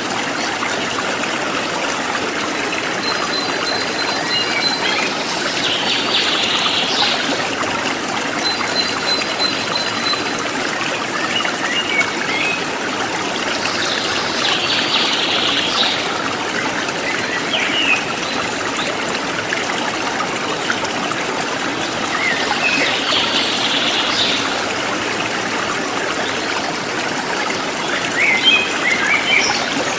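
Forest stream running steadily, with birds calling over it: short dense chirping calls high up every eight seconds or so, a quick run of thin high notes twice, and scattered short chirps.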